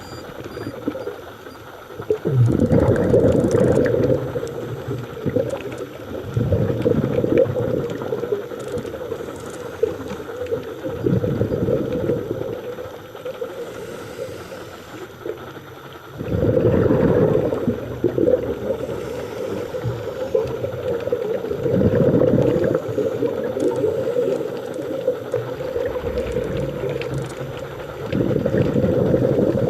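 A scuba diver breathing through a regulator underwater: exhaled bubbles rush out in a burst every four to six seconds, with a steady hiss between breaths.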